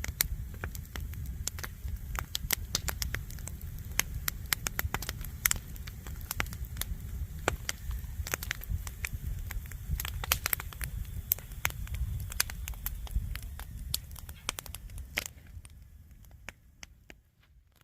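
Wood fire crackling and popping in quick irregular snaps over a low rumble, fading out near the end.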